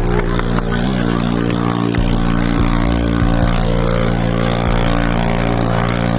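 Small motorbike engines running with a steady, even drone.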